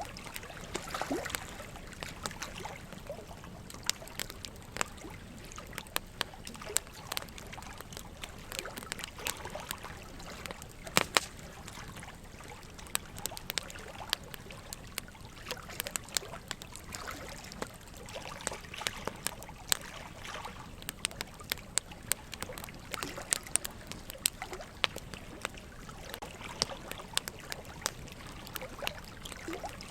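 Burning wood logs crackling with frequent irregular sharp pops, over a steady trickling water sound.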